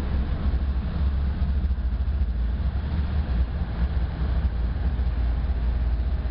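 BNSF autorack freight train running by with a steady, heavy low rumble.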